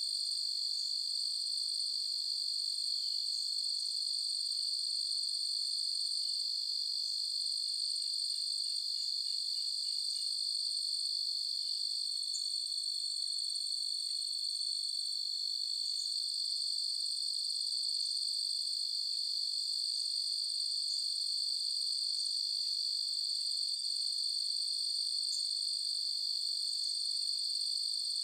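A chorus of crickets trilling steadily at several high pitches that overlap into a continuous ringing drone, with a few faint short chirps here and there.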